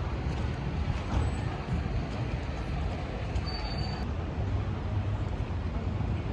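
Steady rumble of city street traffic, with a brief faint high beep about three and a half seconds in.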